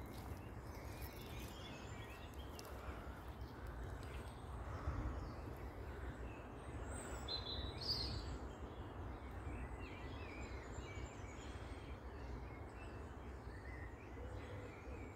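Outdoor background: a steady low rumble with faint birdsong, a few scattered chirps and one clearer chirp about halfway through.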